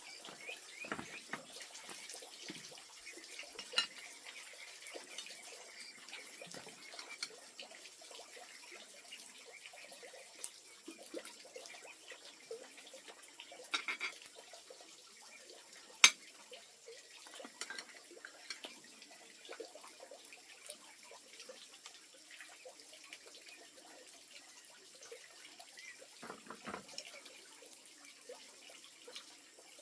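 Water splashing and trickling, with scattered small clinks and knocks and one sharp click about sixteen seconds in.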